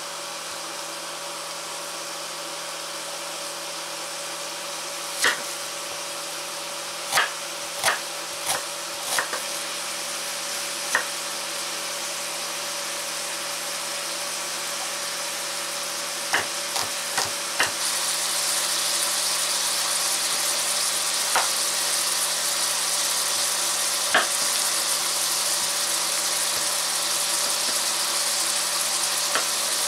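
Chorizo frying without oil in a stainless steel pot, a steady sizzle that gets louder about two-thirds of the way through. Over it, scattered sharp knocks, some in quick runs, of a kitchen knife cutting onion, garlic and zucchini on a wooden cutting board.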